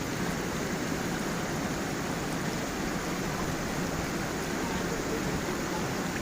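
A small forest waterfall and stream flowing steadily: a constant, even rush of water.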